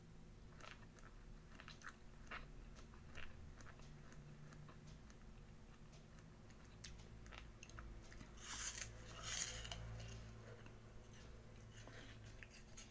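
Faint chewing of crisp apple: soft crunches and mouth clicks, with two louder crunches a little past the middle.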